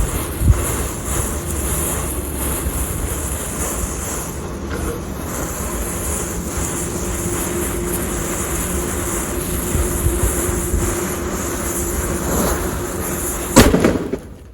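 Steady, loud hissing spray of a burning anar (fountain) firecracker, with one sharp crack near the end.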